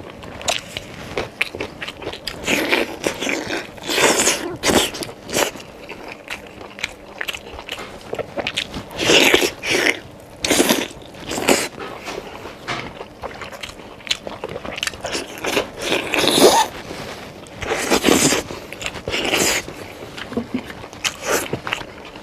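Close-miked eating: biting, tearing and wet chewing of braised steak meat off the bone, in irregular loud bursts.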